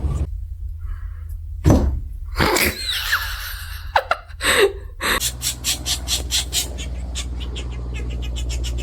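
Woodpecker pecking: a few separate knocks and a short falling squeal, then a long run of quick, even taps that speed up toward the end, over a steady low hum.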